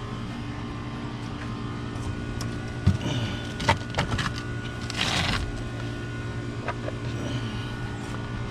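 A steady mechanical hum holding several constant pitches, with a few sharp clicks about three to four seconds in and a brief rustle about five seconds in.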